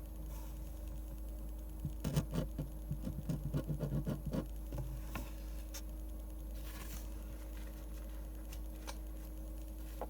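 Pen scratching on paper in a quick run of short strokes for a couple of seconds, then a few single light ticks, over a steady low hum.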